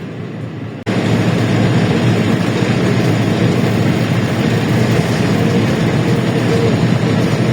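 Engine and road noise of a LiAZ-677M bus, its ZIL V8 petrol engine heard from inside the cabin while driving. It is steady and loud, and jumps suddenly louder about a second in.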